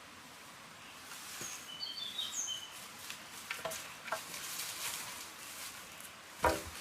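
A few short, high bird chirps about two seconds in, over a steady hiss with light scattered clicks. A single sharp knock near the end is the loudest sound.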